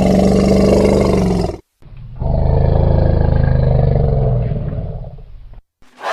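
An animal roaring: two long, low, rough calls, the second longer and fading toward its end.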